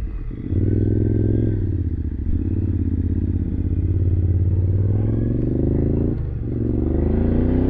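Motorcycle engine running under way, its note holding steady, then dipping briefly about six seconds in, as at a gear change, before the revs climb again.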